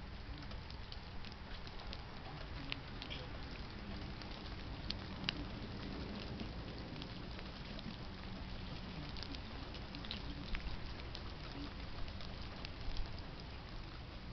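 Light rain pattering, with scattered drops ticking sharply now and then over a steady low rumble.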